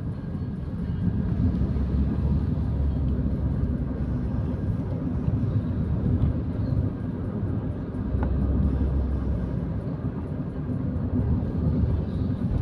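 Steady low rumble of a car driving, the engine and tyre noise heard from inside the cabin.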